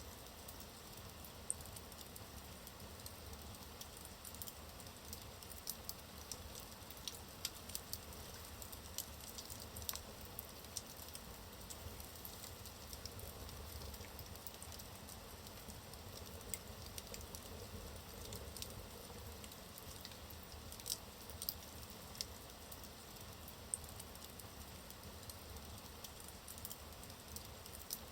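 Wood fire burning in a fireplace: a steady soft hiss with frequent irregular crackles and pops from the logs.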